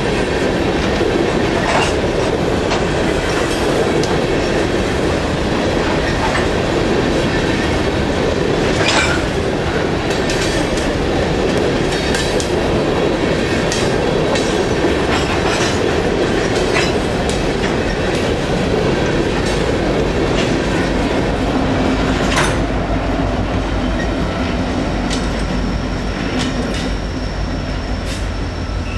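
Empty coal hopper cars rolling past close by, wheels clattering on the track with sharp bangs now and then. About three-quarters of the way through, the clatter gives way to a steadier low rumble with a thin high whine.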